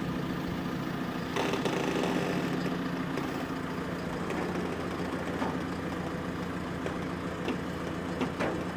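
Heavy vehicle engine running steadily at low speed, with a few light knocks.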